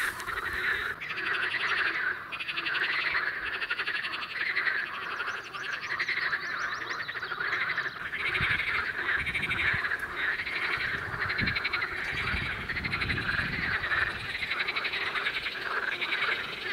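A chorus of many male water frogs (common water frogs and pool frogs) croaking across a pond, their overlapping, rapidly pulsed calls running on without a break: spring mating calls to attract females. A few low rumbles come in around the middle.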